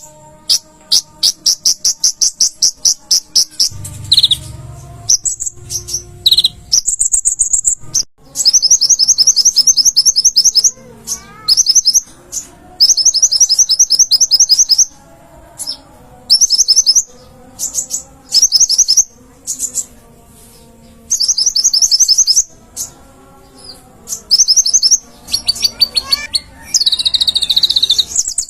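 Konin (kolibri ninja), a small sunbird, singing energetically in very high, fast trills of rapid chips. The trills come in repeated bursts of a second or two, with short breaks between them.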